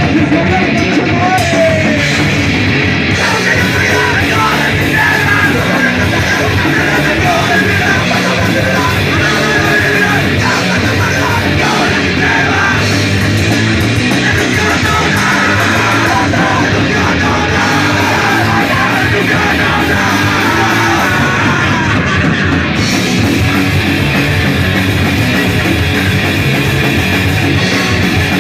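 Punk rock band playing loud and fast: distorted electric guitars, bass and drums, with shouted vocals.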